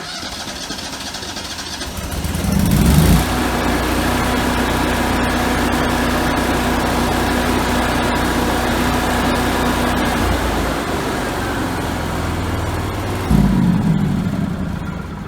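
Engine of a Lincoln Ranger 330MPX engine-driven welder/generator starting up about two seconds in and running with a steady hum. Its sound shifts about ten seconds in, surges briefly around thirteen seconds, then fades near the end.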